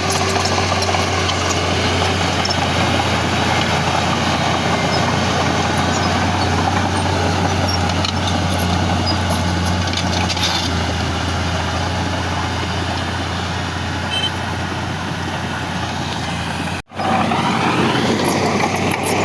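Heavy diesel earthmoving machinery running steadily under work, with a strong low engine hum. The sound cuts out for an instant near the end, then comes straight back.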